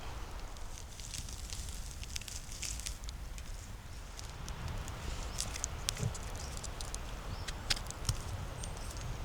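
Footsteps on a forest floor, crunching dry leaves and snapping small twigs in irregular crackles, with a few sharper snaps in the second half.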